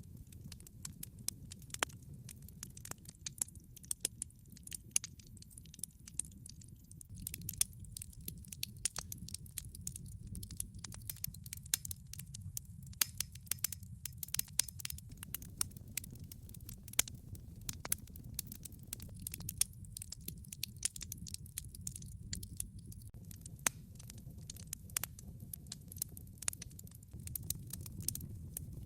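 Wood log fire burning in a fireplace: a steady low rumble with frequent sharp, irregular crackles and pops from the burning logs.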